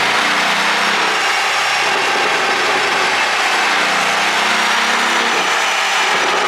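Porsche 718 Boxster's turbocharged 2.0-litre flat-four engine running under a steady, loud noise, with a faint shifting engine note beneath and no distinct pops.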